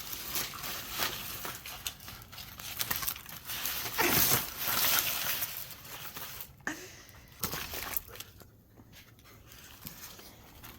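A husky chewing and tearing at a large, dry bird of paradise leaf: irregular crunching and crinkling of the leaf, loudest about four seconds in.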